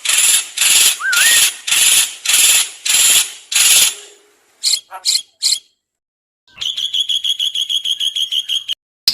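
Songbird calls edited together as mimicry training material for white-rumped shamas. About eight harsh, rasping notes come roughly two a second, then three short chips, and after a brief gap a fast, buzzing rattle of notes; another rattle starts right at the end.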